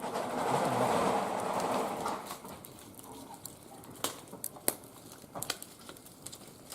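Wood fire burning in a barbecue grill: a rush of noise for the first couple of seconds, then scattered sharp crackles and pops.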